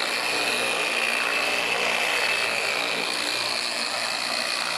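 Electric car polisher (buffer) running steadily with its pad on the paint, working in a sealer coat.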